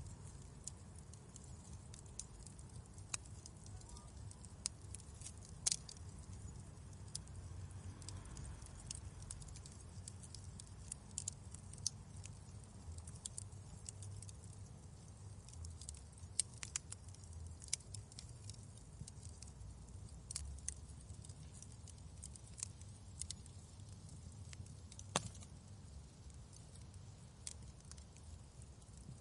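Wood fire crackling: irregular sharp pops and snaps over a low steady rumble of the flames, with a few louder pops.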